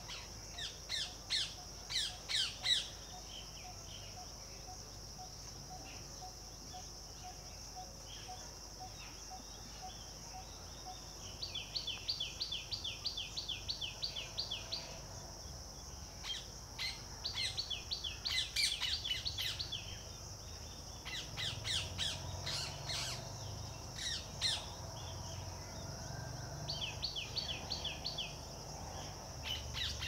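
Small birds calling: scattered short chirps, and three rapid trills of evenly repeated high notes, each lasting a few seconds, over a steady high-pitched drone.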